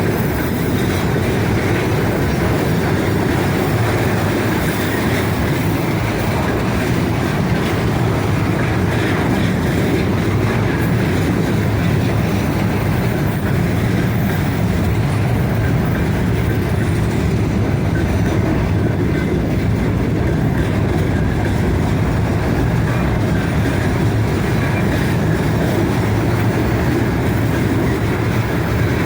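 Freight wagons of a long mixed freight train rolling past, with a steady rumble and clatter of wheels on the rails.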